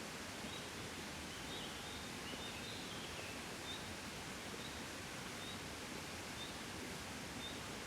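Gentle wind blowing steadily, a soft even rush. A short, faint high chirp repeats about once a second over it, with a few extra chirps a couple of seconds in.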